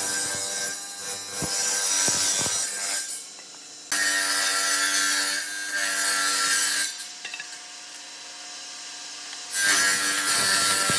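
An electric woodworking tool cutting wood in three passes, each a few seconds long, with its motor still running in the quieter gaps between them.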